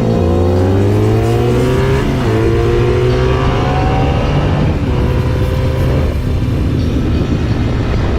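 Honda Magna V65's V4 engine, through a Kerker 4-into-1 exhaust, pulling hard under acceleration: the note climbs, drops at an upshift right at the start and another about two seconds in, climbs again, then levels off to a steadier run.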